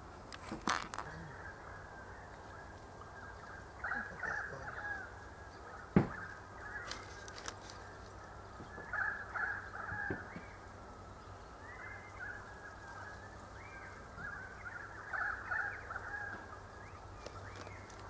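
Birds calling in several runs of short, quick harsh notes, with one sharp knock about six seconds in.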